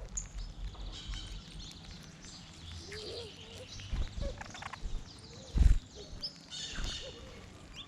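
Small birds chirping and calling in many short high notes, with a few low thumps, the loudest about two-thirds of the way through.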